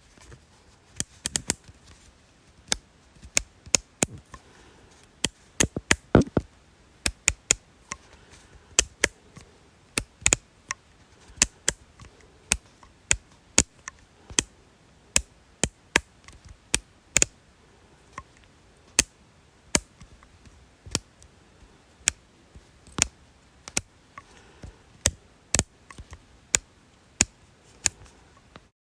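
Repeated sharp clicks, irregular, about one or two a second, some coming in quick pairs or threes, over a faint hiss.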